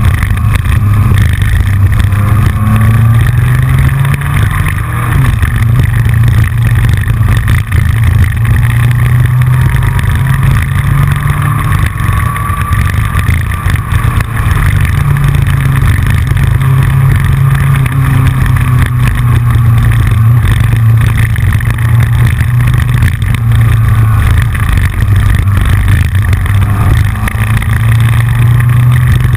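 Yamaha FJR sport-touring motorcycle's inline-four engine running under way, its note rising and falling with the throttle. Heard from a camera on the front fairing, with a steady clicking from the camera mount, which the rider takes to be not secure enough.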